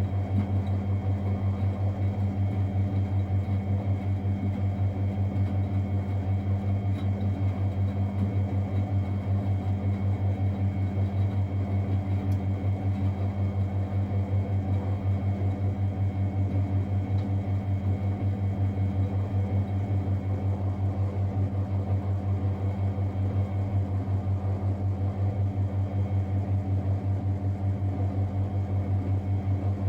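Miele Novotronic W921 washing machine running with a steady low hum that pulses evenly, about four times a second.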